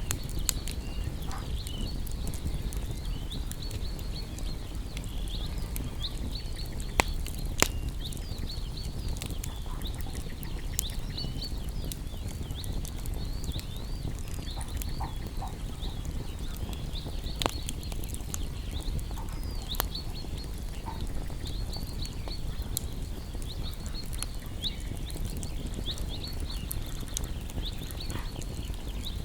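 Wood fire crackling, with a steady low rumble and scattered sharp pops, a few louder ones about 7 and 17 seconds in. A steady high chirping runs over it.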